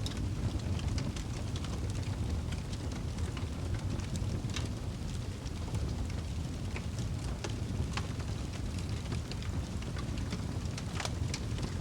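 Wood fire burning in a fireplace: a steady low rumble of flames with frequent irregular crackles and pops, and a louder pop near the end.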